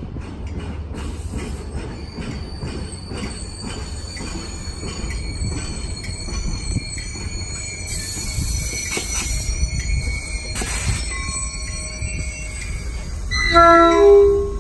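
Caltrain passenger train running through: a steady low rumble with high-pitched wheel squeal, then a short, loud horn blast near the end.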